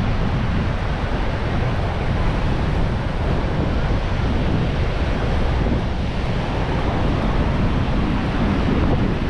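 Ocean surf washing on the beach with wind buffeting the microphone, a steady noisy rush with a heavy low rumble.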